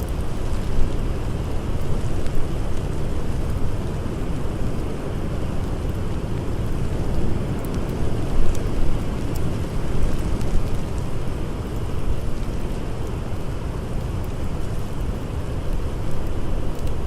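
Steady blizzard wind, a dense rumbling rush heaviest in the low end, with a campfire crackling faintly now and then.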